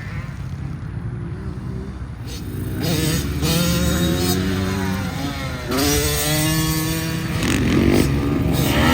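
Dirt bike engine running, then revving hard. Its pitch climbs, drops sharply about two thirds of the way in, and climbs again.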